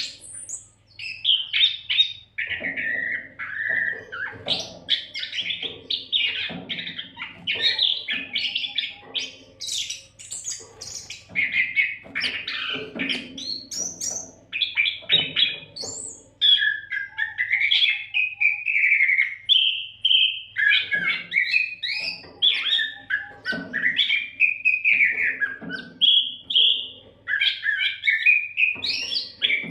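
Oriental magpie-robin (kacer) singing a varied song of rich whistles, quick chirps and gliding notes, phrase after phrase with hardly a pause.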